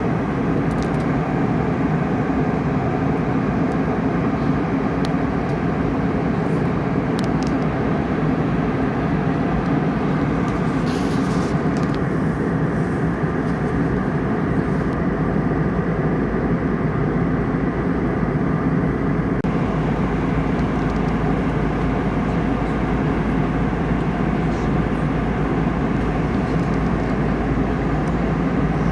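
Steady roar of an airliner in flight on its approach to land, heard as cabin noise of engines and airflow. About two-thirds in, the low rumble deepens and the higher hiss drops away, with a few faint clicks in the first seconds.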